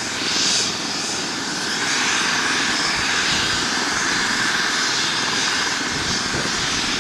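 Airbus H135 helicopter running, its turbines giving a steady whine over rotor and engine noise, getting slightly louder about two seconds in.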